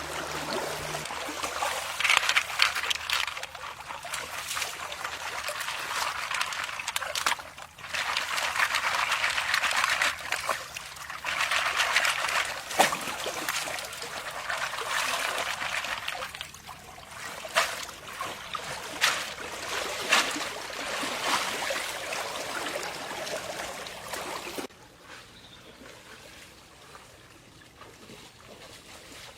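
Water trickling and splashing in uneven surges, with scattered small clicks, until it cuts off abruptly near the end, leaving only a faint background.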